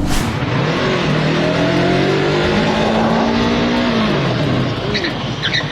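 Motorcycle engine running under way with heavy wind and road noise, its pitch rising and falling as the throttle is worked. A few short high chirps near the end.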